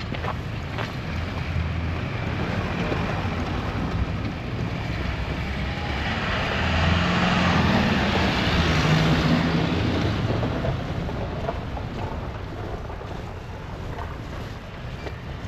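Storm wind blowing over the microphone with street traffic noise; a motor vehicle passes, its engine and tyre noise swelling to a peak about halfway through and then fading.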